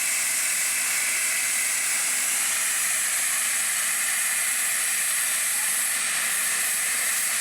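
A miniature steam locomotive releasing steam: a loud, steady hiss that starts just before and holds level without a break.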